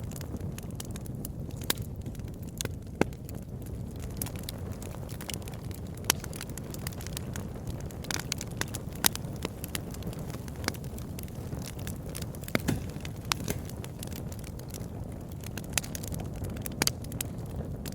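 Campfire burning with a steady low rumble and irregular sharp crackles and pops of the wood.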